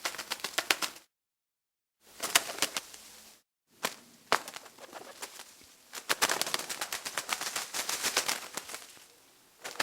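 Bird sound played as four short clips, each dense with rapid clicking, starting and stopping abruptly with dead silence between them.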